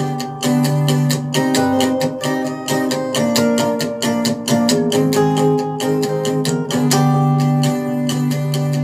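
Instrumental backing track led by strummed acoustic guitar, with held chord notes over a steady rhythm.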